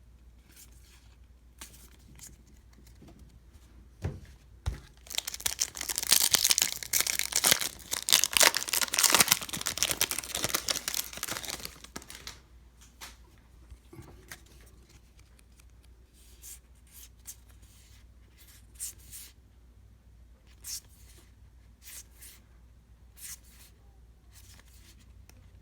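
A baseball card pack's wrapper being torn open and crinkled for several seconds, then scattered light clicks and slides as the cards are handled.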